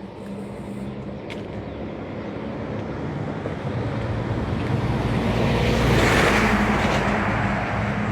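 A car approaching and driving past, growing steadily louder to a peak about six seconds in, then easing off a little.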